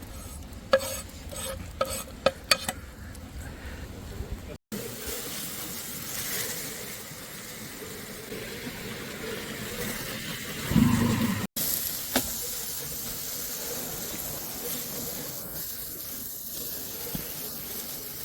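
Food sizzling over a campfire, in a few short edited takes, with a run of sharp metal clinks of cooking utensils near the start and a dull thump about eleven seconds in.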